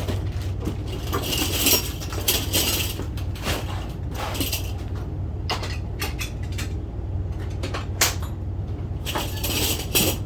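Hand-tool work on a door frame: scattered metal clinks, knocks and scraping, with sharper knocks about two seconds, eight seconds and ten seconds in, over a steady low hum.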